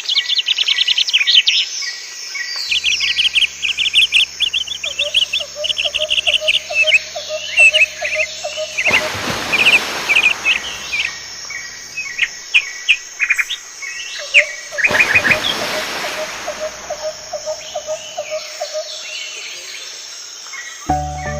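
Songbirds chirping and singing in quick, rapid calls, over a steady high-pitched insect buzz. A lower pulsing trill joins in two stretches, and two short bursts of hiss come about nine and fifteen seconds in.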